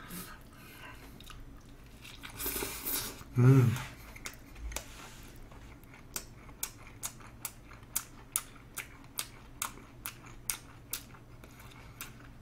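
A man chewing food with his mouth, giving wet smacking clicks about two to three times a second through the second half. Before that comes a breath about two and a half seconds in, then a short low grunt, the loudest sound.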